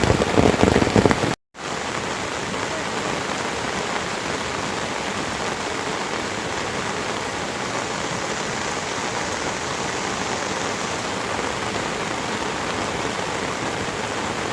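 Steady rain falling, an even hiss with no rhythm or pitch.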